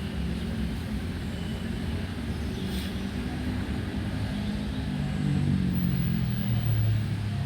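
Steady low rumble of road traffic, swelling about five seconds in as a vehicle passes, with a few faint bird chirps over it.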